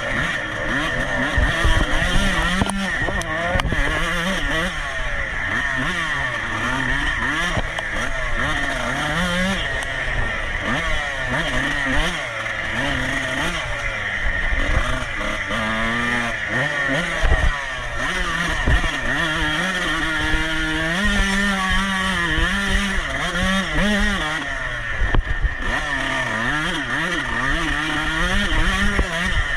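Dirt bike engine ridden hard off-road. Its pitch climbs and drops again and again with throttle and gear changes, mixed with irregular low thumps.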